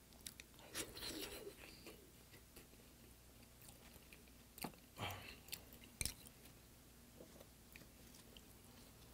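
Close-miked chewing of soft braised potato: wet mouth sounds in a few short bursts, with a sharp click about six seconds in.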